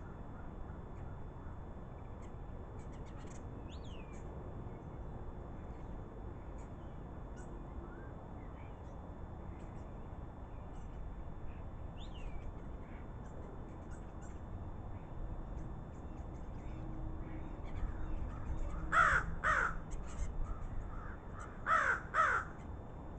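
Crows cawing: two pairs of loud, harsh caws in quick succession near the end. Faint high bird chirps and whistles are heard before them.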